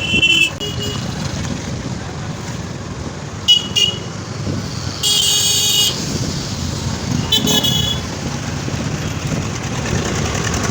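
Vehicle horns honking in street traffic: a short toot at the start, two quick toots about three and a half seconds in, a longer blast at about five seconds and another toot about seven and a half seconds in, over the steady road and engine noise of a moving motorcycle.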